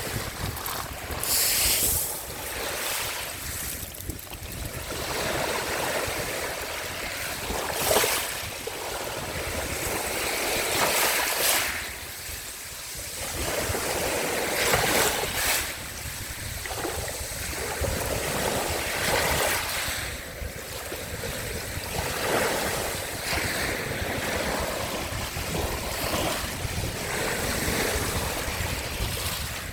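Small sea waves washing onto the shore, swelling and breaking in splashes every few seconds, with some wind noise on the microphone.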